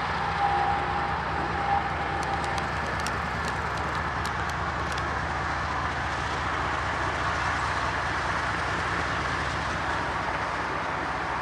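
Autorack freight cars of a CSX auto train rolling past with a steady rumble. A short run of light, sharp clicks comes about two to five seconds in.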